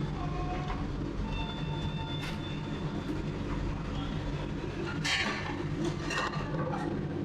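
Revolving-sushi restaurant ambience: a steady low mechanical hum and rumble with scattered clatters of dishes and faint voices.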